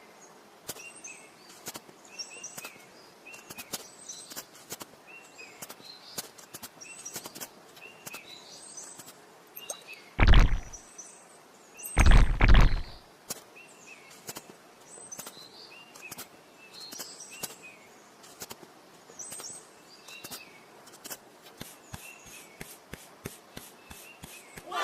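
Small birds chirping again and again, with scattered light clicks and taps. Two louder, deeper thumps come about ten and twelve seconds in, and a quick run of clicks, about five a second, follows near the end.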